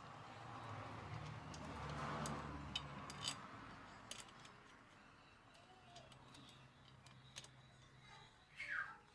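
Faint scattered clicks and taps over a low hum, with a swell of rushing noise about two seconds in.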